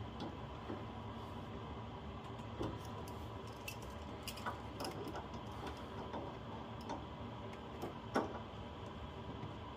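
Scattered light clicks and taps of small tools and fittings being handled, over a steady background hum, with the sharpest knock about eight seconds in.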